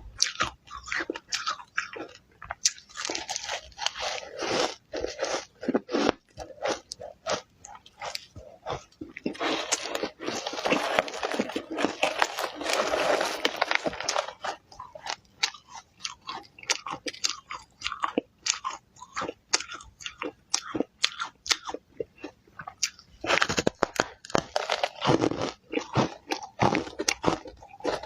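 Close-miked crunching of ice being bitten and chewed: a quick run of sharp cracks, with denser grinding stretches about a third of the way in and again near the end.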